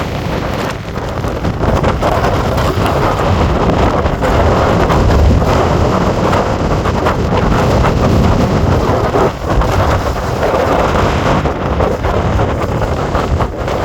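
Strong storm wind buffeting the microphone in gusts, with a heavy low rumble, over breaking surf.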